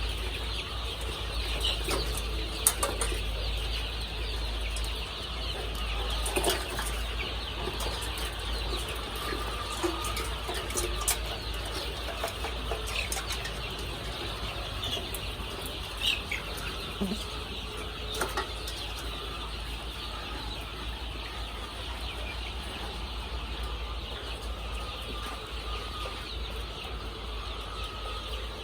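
A large flock of layer chicks cheeping continuously in a dense, steady chatter, with scattered wing flaps and sharp clicks and a steady low hum underneath.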